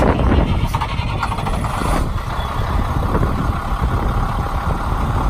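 A 2003 International 7400 bucket truck's diesel engine is started cold and settles into a steady idle. It catches right at the start with a sudden rise in sound and some extra high-pitched noise for about the first two seconds.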